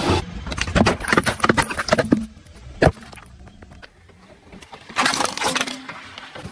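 Things crunching and cracking under a car's tyres as they are crushed: a rapid run of sharp cracks, one heavy thump about three seconds in, then another short burst of crunching about five seconds in.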